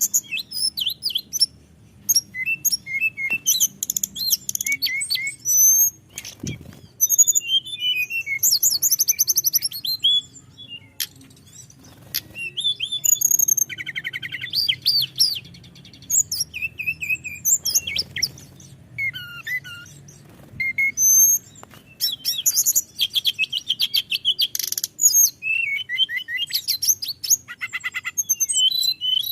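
Hill blue flycatcher (tledekan gunung) singing continuously in a rapid run of varied whistles, chirps and fast trills with hardly a pause.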